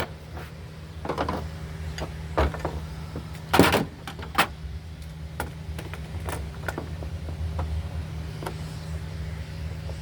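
Work-bench handling noise: scattered clicks and knocks of small parts and tools, with a louder short rasp about three and a half seconds in, over a steady low hum.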